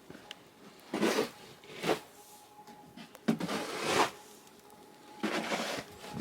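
Crunching in deep snow: several separate crunches about a second or more apart, with a faint steady hum underneath.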